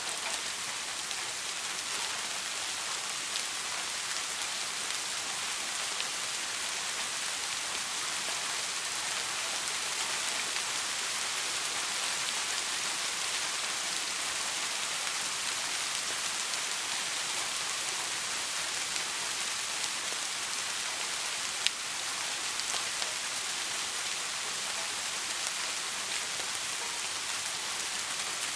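Steady soft rain falling on a surface, an even hiss with scattered drop ticks and one sharp drip click near the end.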